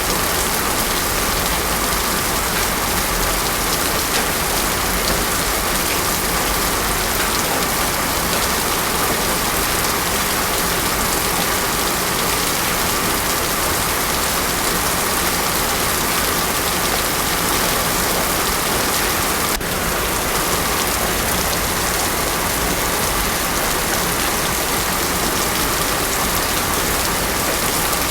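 Heavy rain falling steadily on a paved road, an even, unbroken hiss with no thunder. A single faint click about twenty seconds in.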